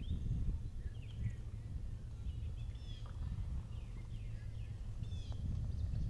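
Small birds chirping and twittering in short scattered calls, over a steady low rumble.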